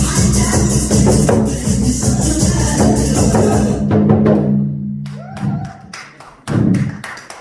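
Korean buk drum beaten in time with loud backing music that has a steady beat; the music fades out about four seconds in, leaving a few separate sharp knocks.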